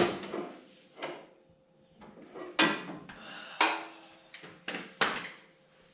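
Sharp metallic clanks and knocks of hand tools and loosened bolts being handled while engine-mount bolts are taken out, about five in all, roughly a second apart, some ringing briefly.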